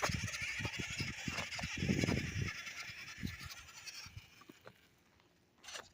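Small battery-powered motor of a toy RC monster truck whining as it drives uphill on dirt, with crackling from the tires. The sound fades away over the first four seconds.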